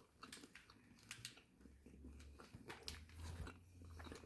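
Faint chewing of a Snickers bar: scattered small mouth clicks and crunches. A low hum comes in about one and a half seconds in.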